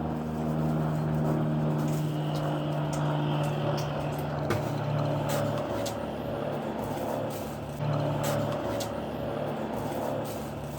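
A steady low mechanical hum, made of several held tones that shift slightly in pitch partway through, with faint small clicks scattered over it.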